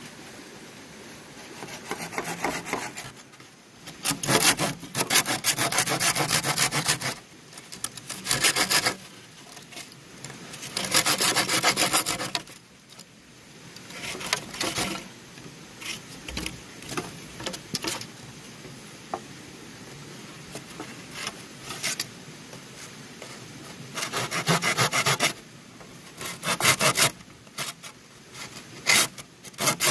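Hand saw cutting through bamboo in spells of rapid strokes, each lasting a second or a few seconds, with short pauses between them.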